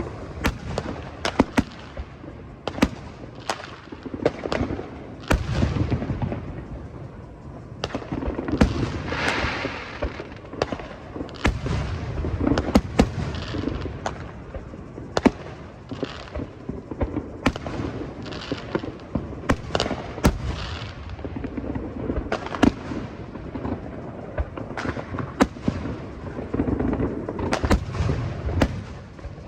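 Fireworks display: a rapid, irregular series of sharp bangs from bursting shells, with low rumbling booms echoing between them.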